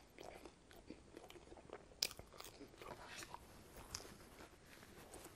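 Faint close-up chewing of a bite of pizza crust: small crunchy clicks and wet mouth sounds, with a sharper click about two seconds in. A paper napkin rustles near the end.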